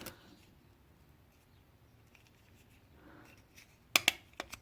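Quiet handling, then a quick cluster of about four sharp plastic clicks near the end as the parts of a Runcam 2 action camera's plastic case are fitted together.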